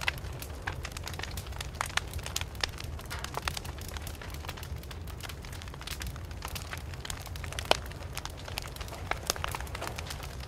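Wood fire burning and crackling: irregular sharp pops and snaps over a steady low rumble of the flames, with one louder pop about three-quarters of the way through.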